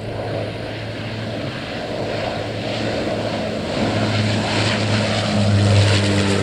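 Airliner on landing approach, its engine sound growing steadily louder as it comes nearer, with a steady low droning hum under a rushing noise.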